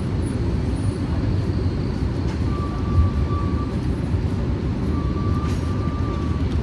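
Steady low rumbling background noise of the kind made by road traffic, with a faint steady high tone that comes in twice.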